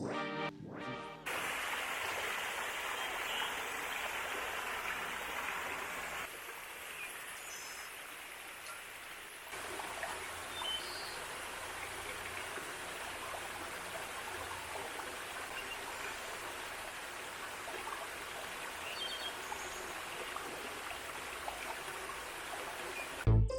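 Running water of a stream or small waterfall, a steady rushing that shifts in level about six and nine and a half seconds in.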